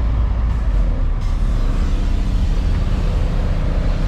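Loud, steady low rumble of a vehicle engine running, with faint steady engine tones joining in about a second in.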